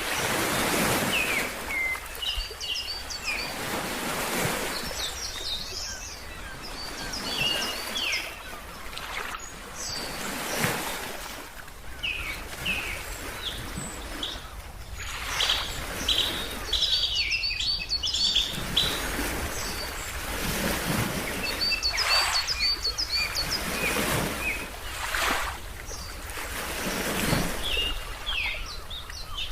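Ocean waves washing in and drawing back every few seconds, with small birds chirping over them in quick repeated runs of short high calls.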